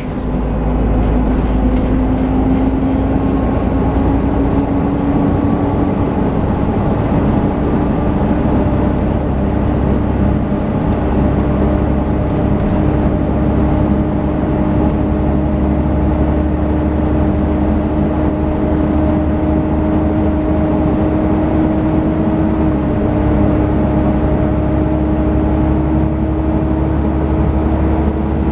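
Volvo B7TL double-decker bus running steadily with its loud 'hoover' whine, the cooling-fan noise these buses are known for. The whine is a steady tone that creeps slowly up in pitch over the low engine rumble.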